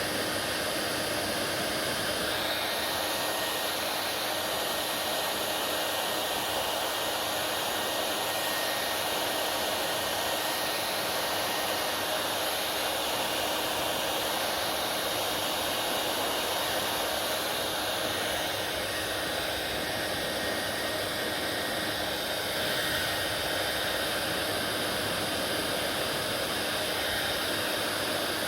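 Hair dryer running steadily: an even airflow rush with a faint constant motor hum underneath.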